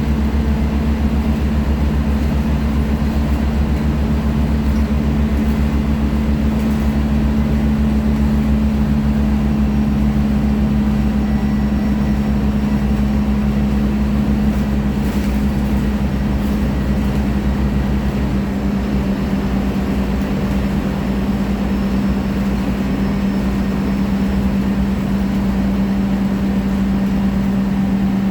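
Scania K310IA articulated bus engine running steadily: a constant low drone over a deep rumble, the rumble easing a little about two-thirds of the way in.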